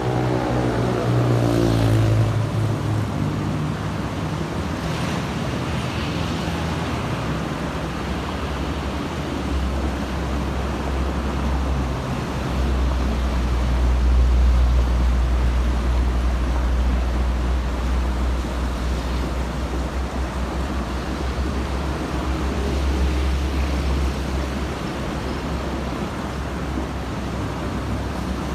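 Road traffic with buses and trucks going by. Near the start a passing engine's note drops in pitch over a couple of seconds, then steady tyre and engine noise follows with a heavy low rumble through the middle.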